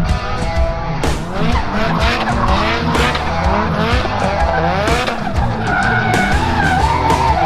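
Toyota 1UZ V8 of a drift car revving up again and again as the car drifts, with tyres skidding; a wavering tyre squeal stands out about six seconds in.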